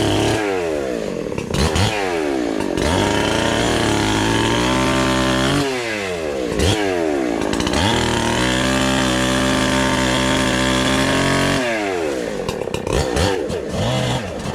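NEO-TEC NH872 71cc two-stroke chainsaw, a clone of the Husqvarna 372 XP, cutting wood: it runs at high revs in stretches of a few seconds, with the revs dropping sharply and climbing back several times, and falling away near the end.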